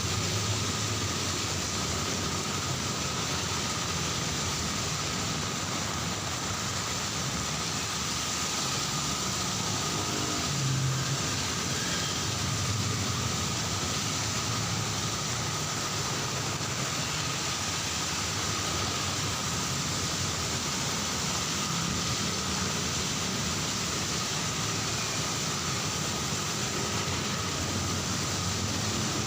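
Heavy rain falling steadily, with road traffic rumbling underneath as vehicles pass.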